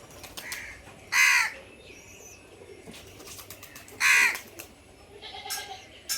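Crow cawing twice, about three seconds apart, each caw short and loud.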